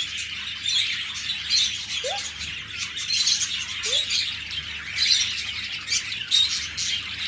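Birds chirping: a rapid, continuous run of short high chirps, with two brief rising squeaks about two and four seconds in.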